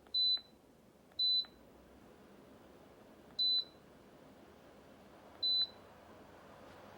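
A Dreo Pilot Max smart tower fan beeps four short, high beeps as its speed is stepped up one level at a time. Under the beeps is the fan's faint steady air hiss, which grows a little louder.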